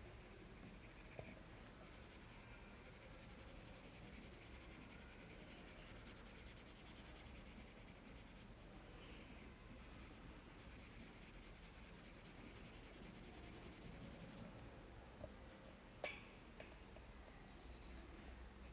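Faint scratching of a pencil shading on drawing paper, with one short click near the end.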